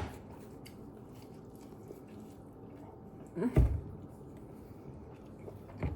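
A person eating pizza: faint chewing, with a short, low voiced 'mmm' that falls in pitch about three and a half seconds in.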